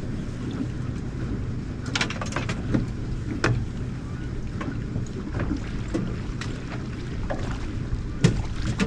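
Steady low hum of a boat moving at trolling speed, with water and wind noise, broken by a few sharp knocks, several between about two and three and a half seconds in and another near the end.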